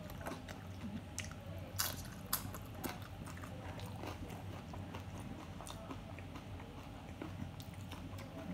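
Close-up chewing of a mouthful of chicken nachos, with scattered crisp crunches of tortilla chips, most of them in the first three seconds, over a steady low hum.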